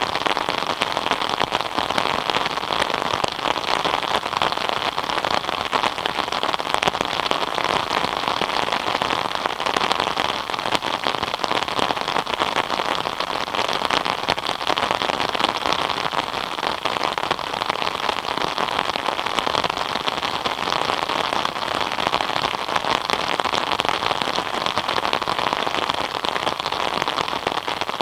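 Steady rain falling and pattering densely on surfaces, an even hiss of many small drop impacts.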